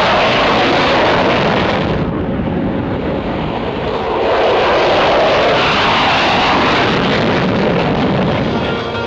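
Loud aircraft engine noise as an aircraft passes. The noise eases about two seconds in and swells again about four to five seconds in.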